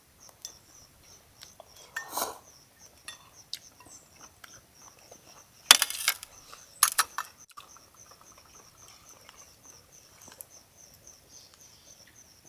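Insects chirping steadily in a high, evenly pulsing trill. A few sharp clinks and knocks of camp gear being handled, about six to seven seconds in, are the loudest sounds.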